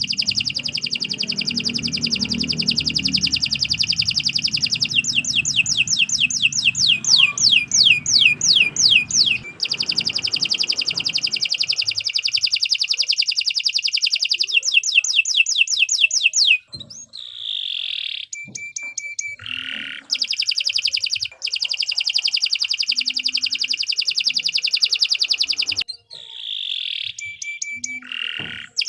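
Domestic canary singing a long, near-continuous song of rapid trills, with runs of quick rising sweeps and a few brief breaks between phrases.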